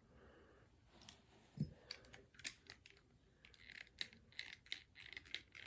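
Small plastic toy parts being handled and fitted together: a soft knock about one and a half seconds in, then a run of quick, faint clicks and rattles.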